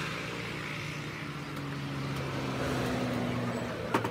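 A vehicle engine running steadily with a low hum. Near the end comes a single sharp chop, a blade striking a king coconut.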